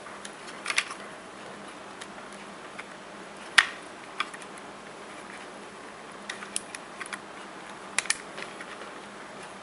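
Scattered small plastic clicks and taps as the RC model's motor wire connectors are handled and plugged back in. The sharpest click comes about three and a half seconds in, and a quick double click follows near the end.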